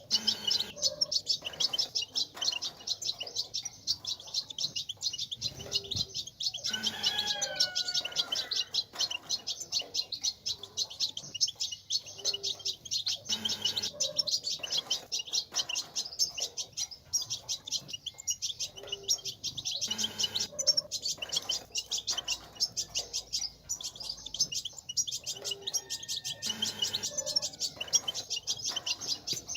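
European goldfinches twittering in a rapid, unbroken high chatter, the 'batbata' chatter played to stir male goldfinches to sing. A few lower gliding whistles come about seven seconds in.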